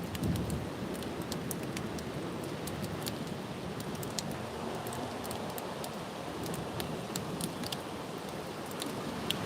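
Wind and rain in a storm: a steady rushing noise with scattered sharp raindrop ticks close by, and a gust buffeting the microphone with a low thump about a quarter second in.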